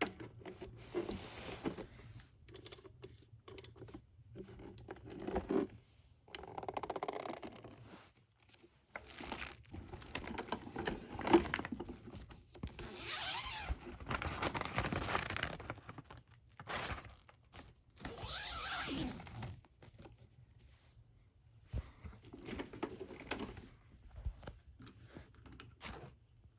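Irregular rustling and scraping of things being handled and moved, in short bursts with pauses between, over a faint low hum.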